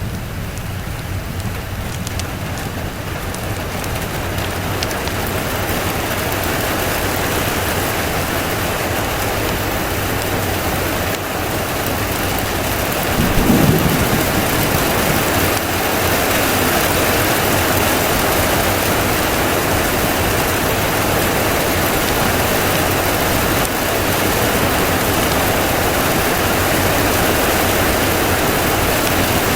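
Steady, heavy rain that swells over the first few seconds, with a short low rumble of thunder about halfway through.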